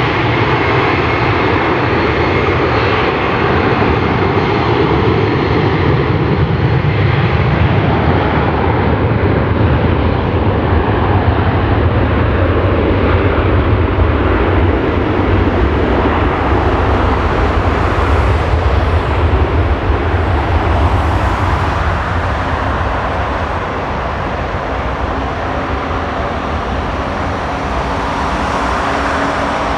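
Boeing 767-300ER's twin jet engines running loud, a deep rumble under a broad roar, easing somewhat in the last third.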